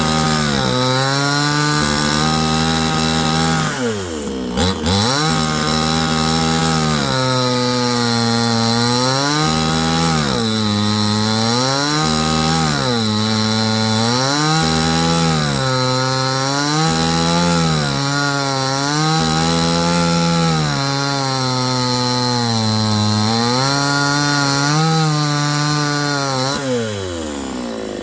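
A small petrol engine running hard under load, its pitch sagging and recovering every second or two, dipping deeply about four seconds in and dropping away near the end.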